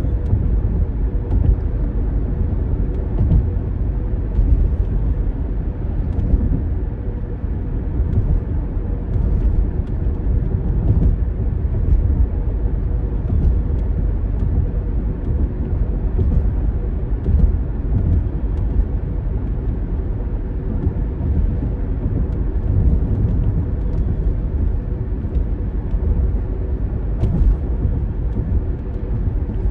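Inside a moving car: steady rumble of the engine and road noise, with a faint steady hum and no change in pace.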